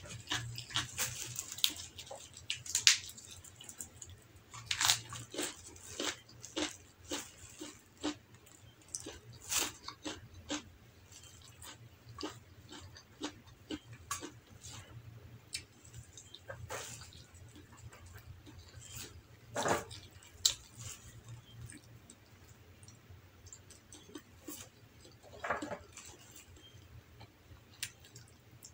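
Close-up eating sounds of a person chewing rice: wet mouth clicks and smacks coming in scattered, irregular bursts.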